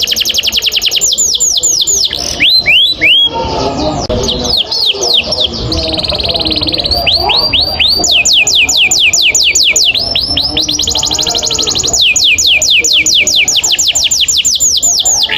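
Domestic canary singing a long 'roll' song: fast trills of repeated falling notes, about ten a second. A few seconds in, the trill gives way to a varied stretch of shorter notes, then long trills resume.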